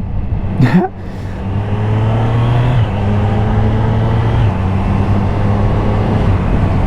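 Triumph Street Triple RS's three-cylinder engine running under way as the motorcycle is ridden, building after a dip about a second in, with changes in pitch near three and four and a half seconds in.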